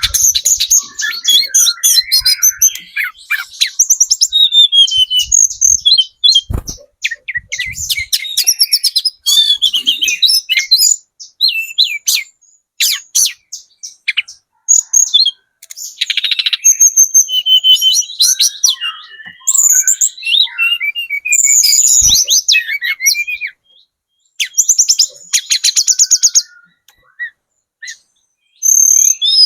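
Hill blue flycatcher (tledekan gunung) singing continuously in rapid, varied phrases of high whistles, chirps and twittering trills, broken by short pauses. There are two brief low knocks, about six seconds in and again past twenty seconds.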